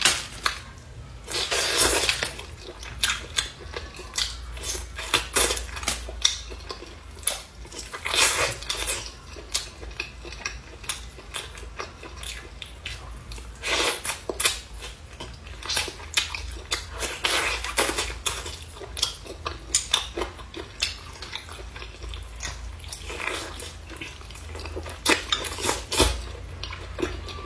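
Chopsticks clinking and scraping against bowls and plates as someone eats, many short sharp clicks with a few longer scraping or crunching bursts.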